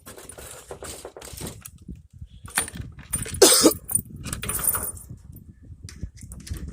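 Rustling and clinking handling noises, with a short loud sound about three and a half seconds in.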